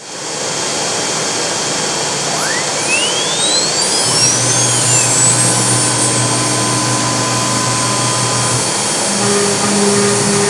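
CNC router running with a loud, steady rushing noise; about two seconds in, a whine rises smoothly in pitch for several seconds as the spindle spins up to speed. A low steady hum joins about four seconds in and drops away near the end.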